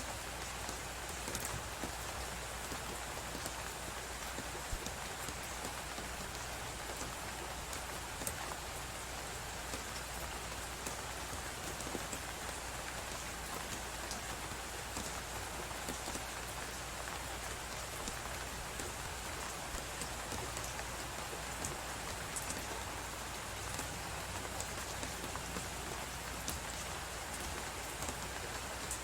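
Steady hiss of blizzard wind, with many small, sharp, irregular crackles and pops of a wood fire burning in a fireplace.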